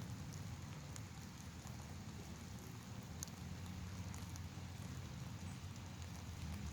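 Light rain sprinkling: a soft steady patter with a few faint drop ticks over a low rumble.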